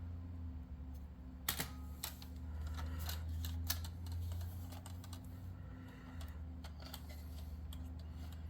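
Scattered light clicks and taps of a plastic H0-scale model railway car being handled, over a steady low hum.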